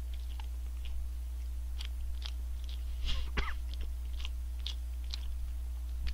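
Close-up chewing and biting of a fried chicken burger (McDonald's McSpicy Shanghai Deluxe), with many small crunches and wet mouth clicks. About halfway through comes a short, louder sound from the throat that falls in pitch.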